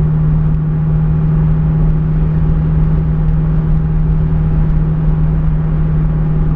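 Pontiac Firebird's engine droning at a steady, high cruising rev with a low rumble beneath it; the car has no fourth gear, so it revs high at speed.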